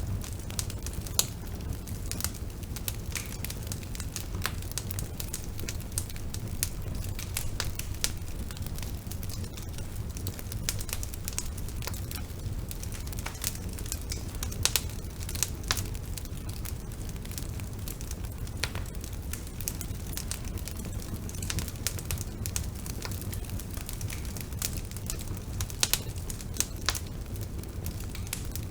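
Bonfire burning with a steady low rumble and scattered sharp crackles and pops of burning wood.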